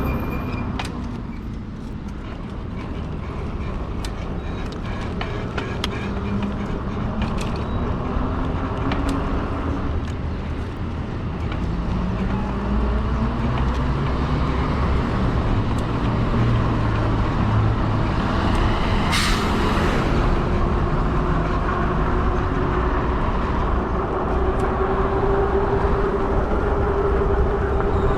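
Steady road and traffic noise heard while riding a fat-tire e-bike through city streets, with a whine that slides up and down in pitch. A short hiss comes about two-thirds of the way through.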